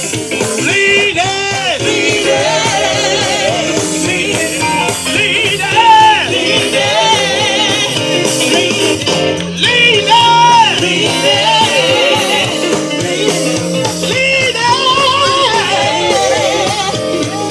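Live band music with a singer's voice holding long, wavering notes over the accompaniment.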